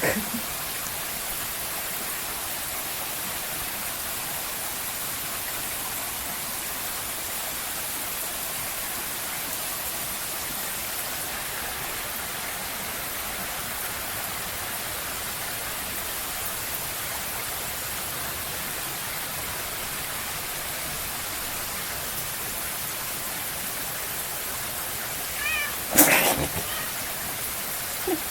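Steady hiss of falling rain. Near the end a cat meows once, briefly, and a sharp knock follows right after it.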